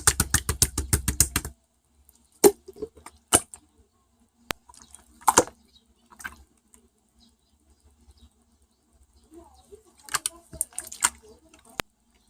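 A fast run of sharp clicks or taps for about a second and a half, then scattered single clicks and knocks.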